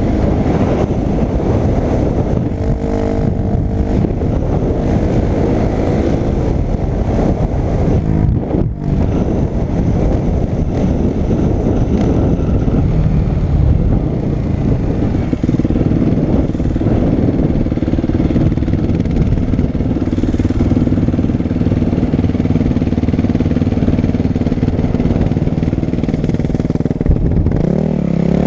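Dirt bike engine running under throttle, its pitch shifting up and down, with a rising rev near the end.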